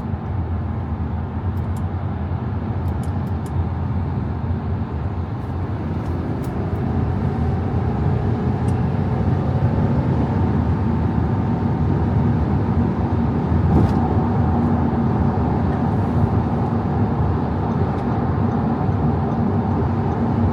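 Audi A5 50 TDI's 3.0 V6 diesel engine running under way, with steady road and tyre noise. About a third of the way in a faint tone rises and the sound grows a little louder.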